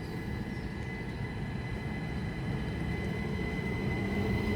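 Class 375 Electrostar electric multiple unit moving through the station with a steady low rumble and a thin high whine, growing louder toward the end.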